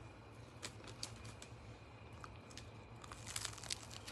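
Faint scattered clicks and light rustling, a little busier about three seconds in, over a low steady hum.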